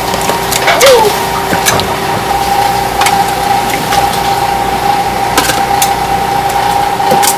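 Steady machine hum holding two even tones, with scattered light clicks and knocks; the loudest knock comes about a second in.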